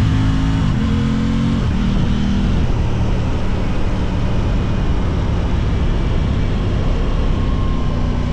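Sport motorcycle's parallel-twin engine running while riding, its pitch changing twice within the first three seconds, after which steady wind and road rush take over.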